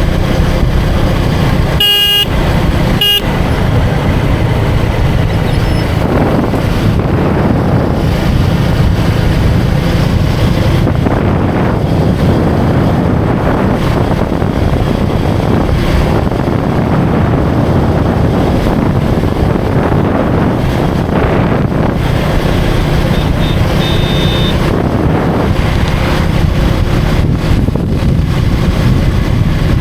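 Motorcycle engine running steadily under way in street traffic, with a vehicle horn tooting twice in short blasts about two and three seconds in.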